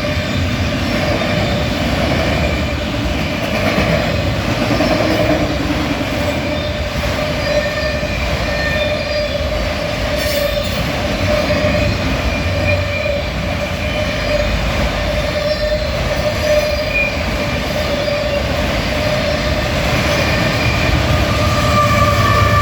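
Freight train of container stack cars and autoracks rolling past, the wheels squealing steadily over the rumble of the cars.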